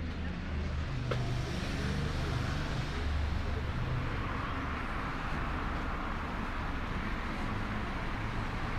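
Road traffic on a city street: a steady low engine rumble, with tyre noise swelling from about halfway through as a vehicle passes. A single sharp click about a second in.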